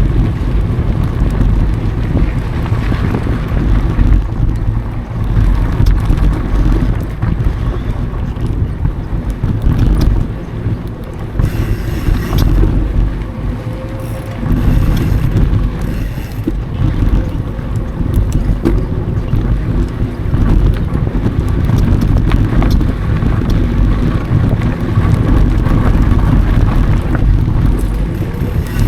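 Wind buffeting an action camera's microphone as the mountain bike rolls along the trail, with a steady low rumble of tyre and trail noise and a few light knocks from the bike.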